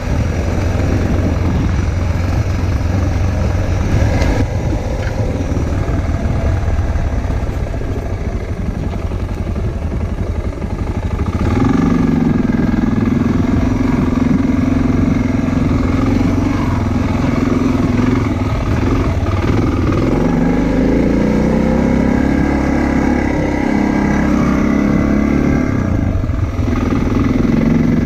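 Motorcycle engine running under way, low and steady at first. About eleven seconds in the revs climb and hold, dip and rise again around twenty seconds, and pick up once more near the end.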